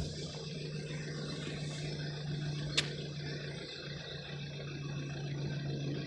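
Car engine idling steadily, a low even hum, with one sharp click about three seconds in.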